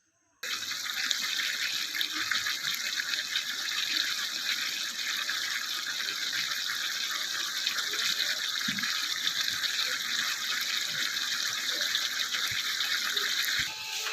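Water running steadily, as from a tap, starting suddenly about half a second in and stopping suddenly near the end.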